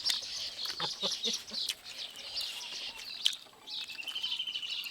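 Birds chirping throughout, with two longer, even trills, one around two seconds in and one near the end, and a few soft clicks.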